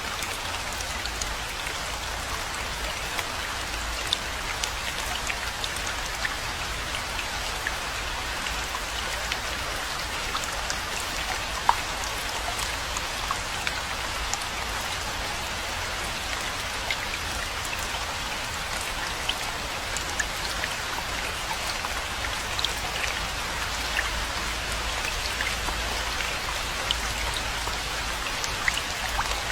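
Steady rainfall: an even hiss of rain with many individual drops landing close by as scattered sharp ticks, one louder than the rest about twelve seconds in.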